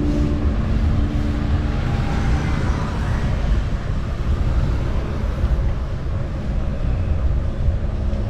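Wind and road noise on a moving bicycle's action camera: a steady, uneven low rumble. Background music with sustained notes fades out in the first two seconds.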